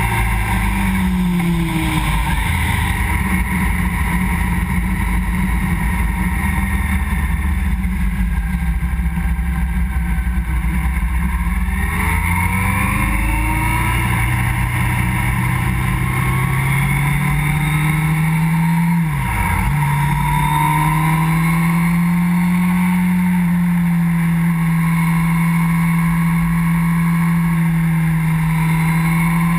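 Motorcycle engine running under way, heard from the bike itself with steady wind and road noise. The revs fall twice as it eases off and then climb again. A quick dip and recovery about two-thirds of the way through leads into a steady, higher engine note.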